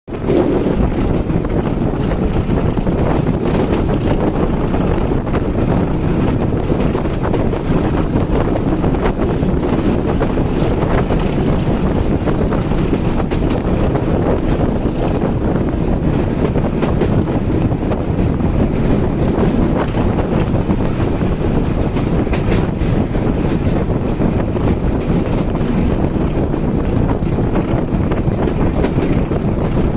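Passenger train running at speed, heard from on board: a steady, loud rumble of the carriage on the track with wind buffeting the microphone.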